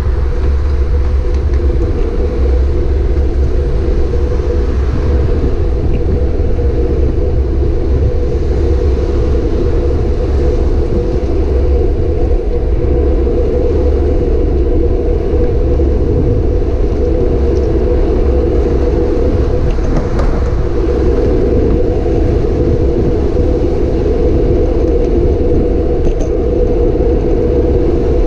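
Loud, steady rumble of wind and road noise picked up by a camera riding along on a moving bicycle.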